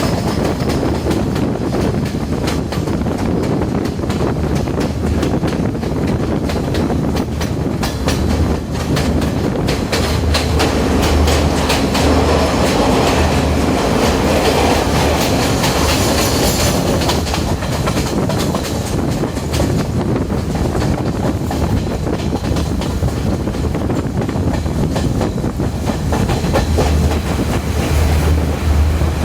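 Diesel intercity express train running, its wheels clicking rapidly over the rail joints under a steady low rumble. The noise swells for several seconds midway.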